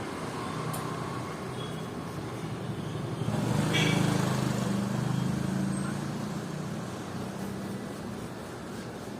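A motor vehicle engine passes close by over steady traffic noise. It swells about three seconds in and fades away over the next few seconds.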